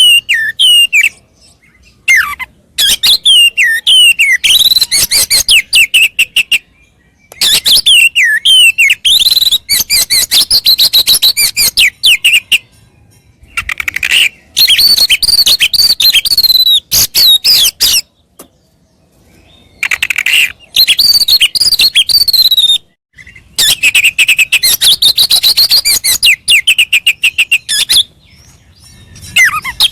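Oriental magpie-robin (kacer) singing loud phrases of several seconds each, with gliding whistled notes mixed with fast chattering trills, broken by short pauses every few seconds. It is the song of a male kacer billed as ready to fight.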